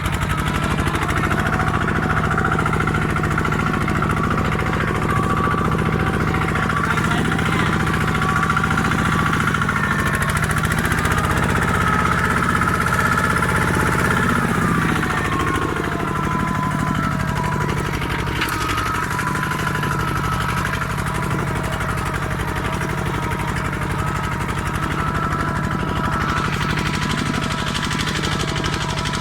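Kubota hand tractor's diesel engine running steadily under load, a fast, even knocking chug. Its pitch lifts a little and then drops back, easing slightly, about halfway through.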